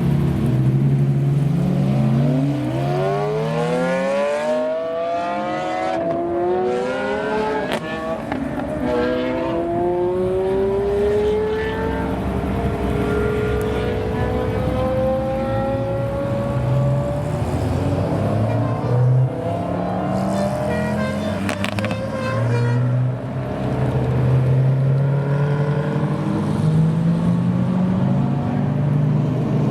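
Several Lamborghini supercar engines running, with engines idling low underneath while cars rev up and accelerate away in rising sweeps of pitch. A few sharp crackles sound near the end of the run-ups.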